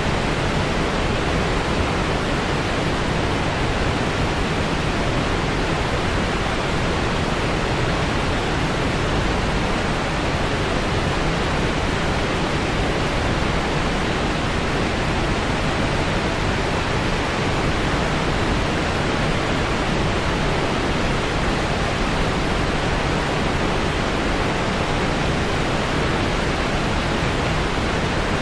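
Steady synthetic noise (white or pink noise), an even hiss-like rush that does not change.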